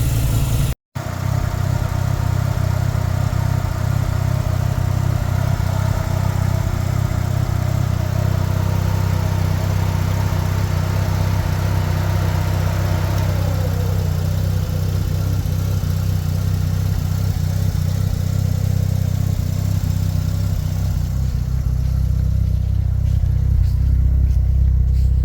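Mazda RX-7's rotary engine idling steadily, not very loud. About halfway through, a higher tone drops in pitch.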